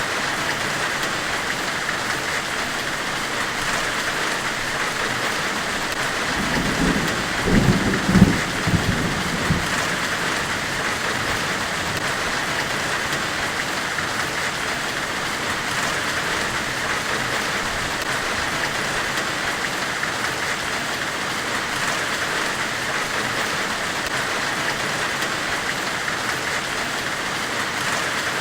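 Steady, even hiss of a white-noise ambience, rain-like in character. A low rumble swells up about seven seconds in and dies away by about ten seconds.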